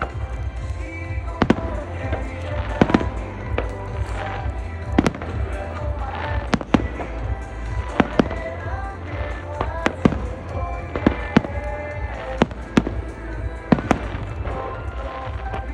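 Fireworks bursting in quick succession, sharp cracks and booms about once a second, over the show's music soundtrack with long held notes.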